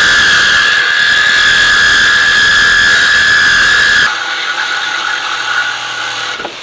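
Power tool cutting through the Mustang's exhaust pipe with a loud, steady high whine; about four seconds in it is released and winds down.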